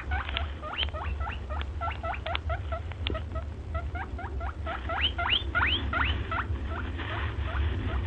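A small animal giving a rapid series of short, rising squeaks, several a second, over a steady low hum.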